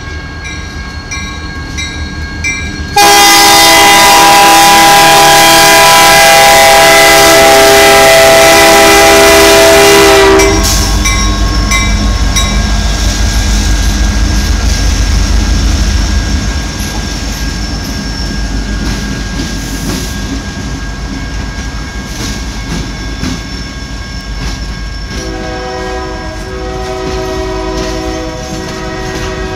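A grade-crossing bell rings for about three seconds, then a CN freight train's diesel locomotive horn blows one long, loud chord for about seven seconds. The lead locomotives pass close by with a heavy low rumble, which eases to the rolling of freight cars. Near the end a quieter horn chord sounds again.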